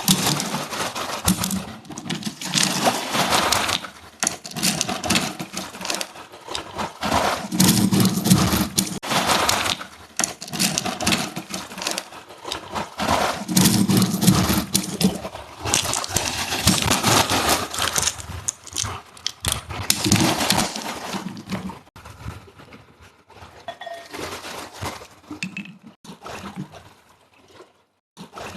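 A person breathing deeply and slowly close to the microphone, each breath a swell of a few seconds with pauses between, growing quieter and sparser near the end.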